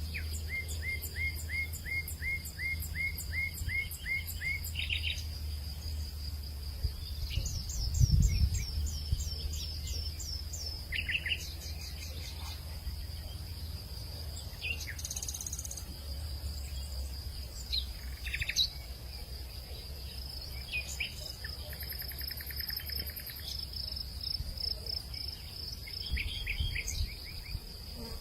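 Birds calling in quick series of short rising chirps over a steady high-pitched insect drone, with a low rumble underneath that swells briefly about eight seconds in.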